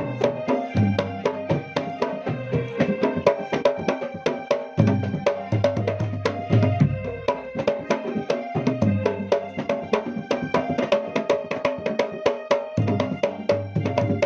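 Javanese jidor music played over a sound system: fast, dense hand-drum strokes and ringing pitched percussion over phrases of deep bass-drum hits.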